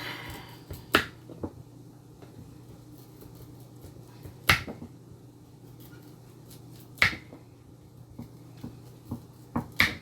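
Knife chopping on a cutting board: four sharp chops at uneven intervals, with lighter taps between them, over a steady low hum.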